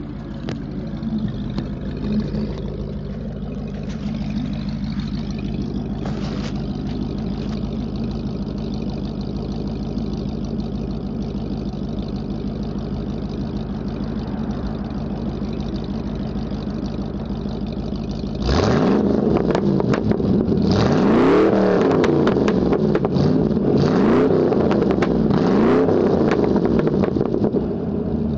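1996 Ford F-150's 302 V8 running through side-exit glass-pack mufflers: it idles steadily, then about two-thirds of the way in it is revved up and let fall back several times, louder. The owner thinks the engine sounds like it is begging for a valve job.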